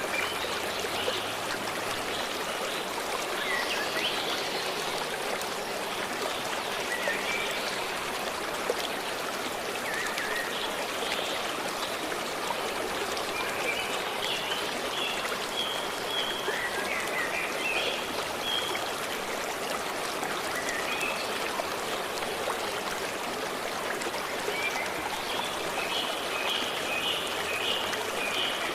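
Stream flowing steadily, with forest birds calling over it: scattered short chirps and, around the middle and again near the end, runs of quick repeated notes.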